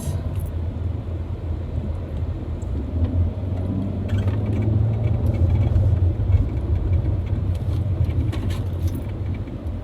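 Steady low rumble of a car's engine and road noise heard from inside the cabin while driving in traffic, swelling a little in the middle and easing off again.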